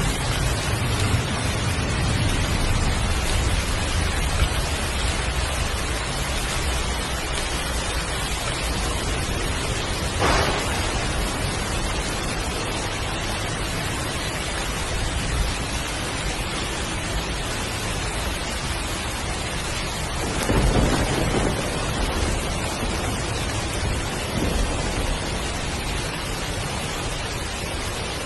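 Heavy rain falling steadily, with low rolling thunder in the first few seconds and short louder thunder claps about ten seconds in and again just past twenty seconds.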